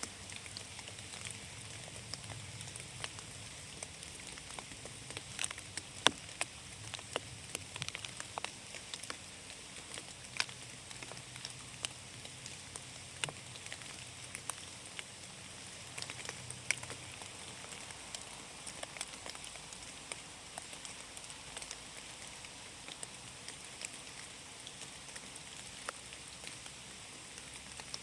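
Rain falling in a forest: a steady hiss with irregular sharp drips landing close by, the loudest about six seconds in.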